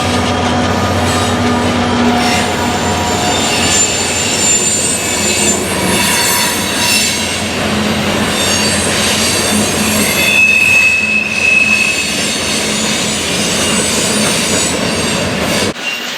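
Freight train rolling past, its steel wheels squealing against the rails in several high, shifting tones over the rumble of the cars. The sound changes abruptly near the end.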